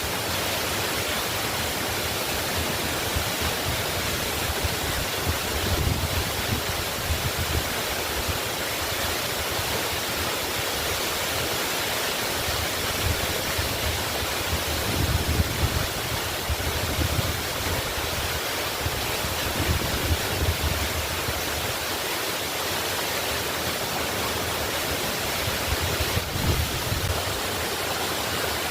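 Waterfall: a steady rush of falling water, with low rumbling swells that come and go.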